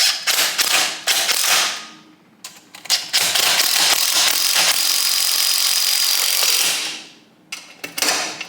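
A ratchet wrench is clicking in quick runs as two bolts are cranked down to push a part off a Kawasaki KZ1000 engine. From about three to seven seconds in there is a steady, dense mechanical noise.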